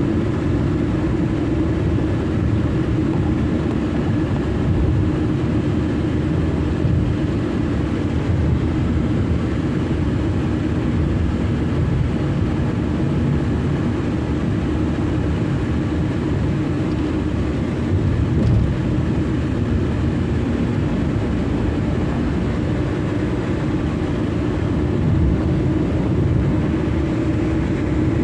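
Car being driven: a steady low rumble of engine and road noise with a constant hum.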